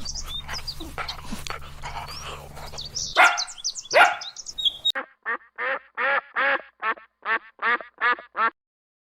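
A duck quacking in a rapid, evenly spaced series of about a dozen quacks, about three a second, in the second half. Before that, a busy mix of high bird chirps with two louder calls about three and four seconds in.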